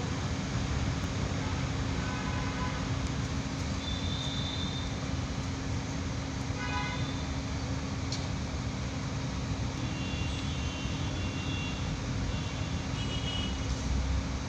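Birds giving short, high calls several times, including a quick run of notes about halfway through. Under them runs a steady traffic rumble with a constant low hum.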